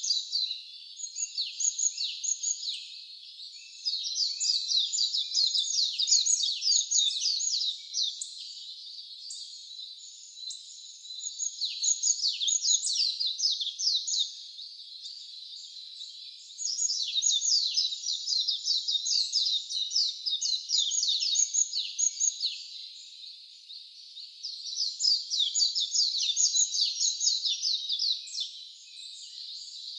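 Wild songbird singing in long bursts of rapid, high chirping notes, each burst lasting a few seconds, with short pauses between them, about five bursts in all.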